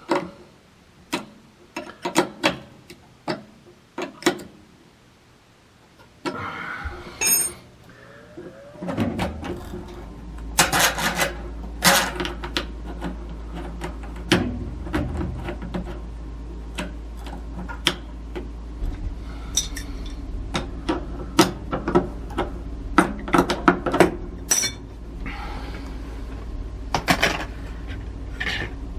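Metal hand tools and parts clinking and knocking in a run of sharp strikes, as the gas valve on a water heater is worked on. About nine seconds in, a steady low hum starts underneath.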